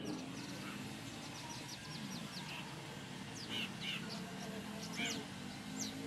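Birds chirping: a quick run of short high chirps near the start, then a few scattered calls, over a steady low background.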